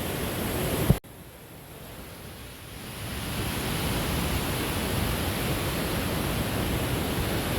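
Steady rushing of a waterfall. About a second in a sharp click cuts in, the rush drops much quieter, then swells back to full over the next few seconds.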